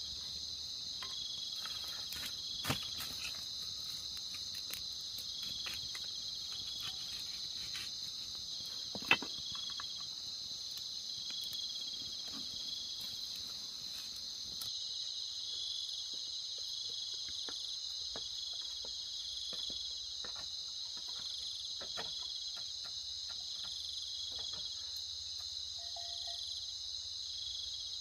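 Insects chirping in a dense, steady chorus: a continuous high trill with a pulsed chirp repeating beneath it. A sharp knock sounds about three seconds in, and a louder one about nine seconds in.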